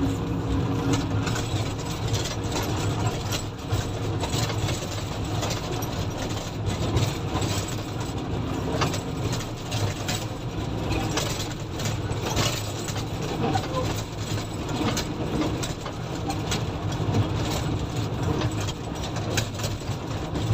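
Komatsu motor grader's diesel engine running steadily, with frequent short knocks and rattles over the low engine note.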